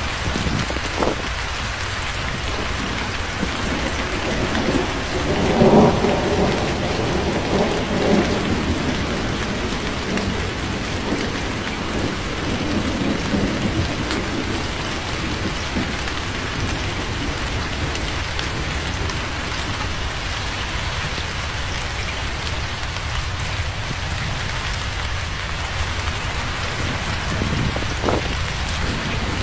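Steady rain with thunder: a rumble swells about six seconds in, a softer roll follows a few seconds later, and a sharp crack comes near the end.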